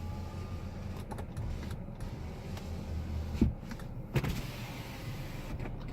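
2011 Cadillac CTS power window motor running for about three and a half seconds, then stopping with a short thump as the glass reaches the end of its travel, with a few switch clicks.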